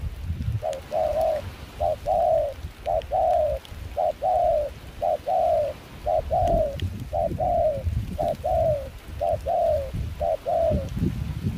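Spotted dove cooing: a steady run of about ten phrases, each a short note followed by a longer falling note, repeated a little more than once a second.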